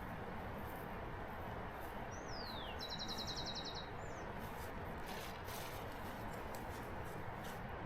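A songbird calls once over a steady background hiss: a falling whistle, then a quick trill and a short rising note.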